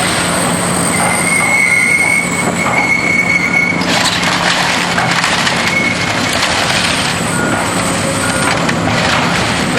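Heavy demolition machinery at work on a building, a diesel engine running under a high metallic squeal that lasts a couple of seconds, then a louder spell of crunching, clattering noise from about four seconds in.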